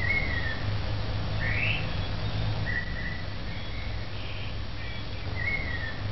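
Birds calling: short whistled calls, some sliding down and some sweeping up in pitch, every second or so, over a steady low rumble.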